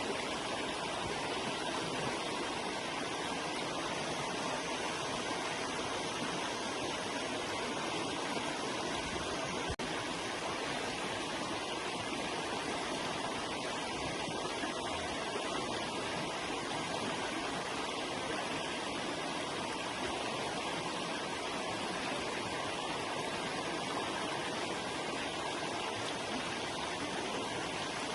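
River water rushing and splashing steadily over rocks, with a very brief dropout and click about ten seconds in.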